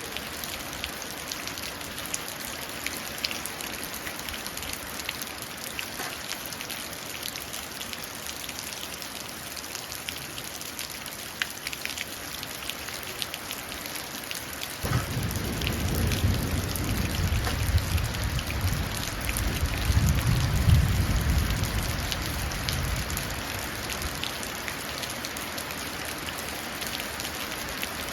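Steady rain pattering and dripping into a puddle, with many separate drop ticks. About halfway through a low roll of thunder comes in suddenly, swells for several seconds and dies away.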